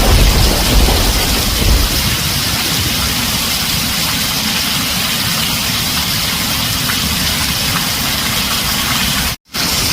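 Heavy rain drumming steadily on a tin roof, with a deep thunder rumble dying away over the first two seconds. The sound cuts out for an instant near the end.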